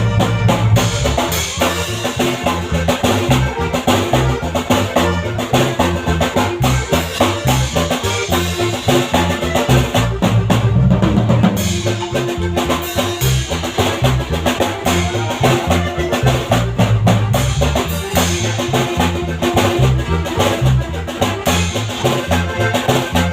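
Norteño band music: drum kit keeping a steady beat under a stepping bass line, with the full band playing continuously.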